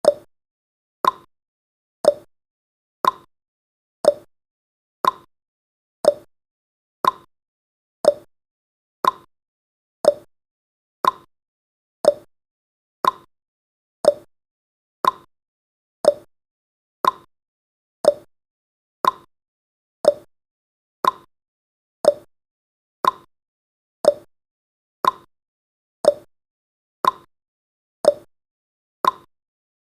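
Clock-tick sound effect of a countdown timer: one short, crisp tick every second, evenly spaced.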